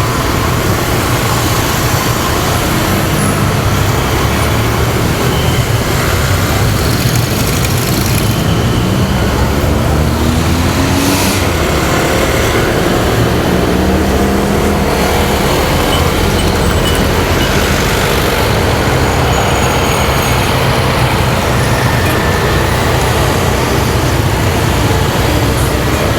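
Motorcycle engine running under the rider amid road traffic, with wind noise on the microphone; its pitch rises and falls twice in the middle as it speeds up and eases off.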